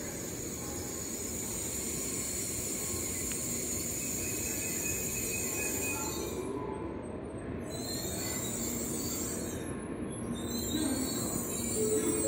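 N700-series Tokaido Shinkansen train pulling into a station platform and braking: a steady high hiss, then squealing brake and wheel tones that get lower as it slows toward a stop.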